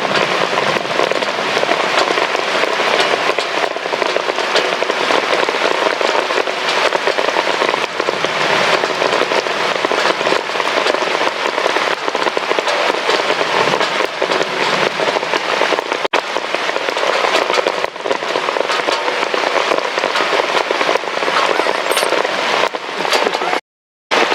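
Heavy rain falling steadily in a dense, crackling patter. The sound cuts out completely for a moment near the end.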